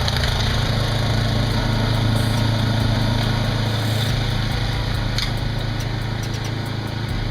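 Toro snowblower's small engine running steadily under load as it clears snow.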